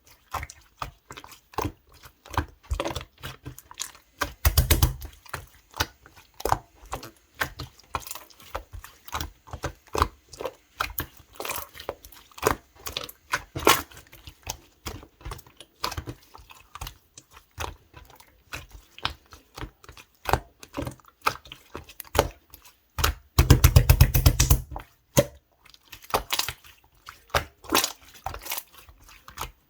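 Blue clear slime being pressed and squeezed by hand, making a continual run of small clicks and pops from trapped air. There are two louder, denser stretches of popping, one about five seconds in and one near twenty-four seconds.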